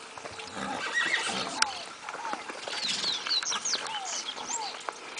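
Outdoor birdsong: a bird repeats a pair of short falling whistled notes about every one and a half seconds, with higher quick chirps from other birds in the middle of the stretch. One sharp click stands out about one and a half seconds in.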